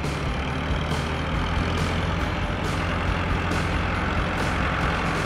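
Steady low rumble of a heavy vehicle engine running, a cartoon sound effect with a hiss over it.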